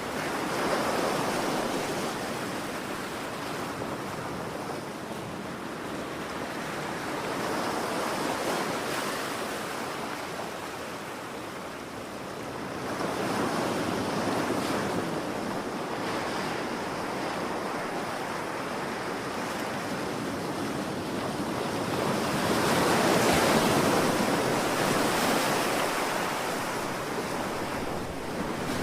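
Ocean waves breaking and washing on shore in slow, repeated surges, the loudest wave about 23 seconds in, with wind over the microphone.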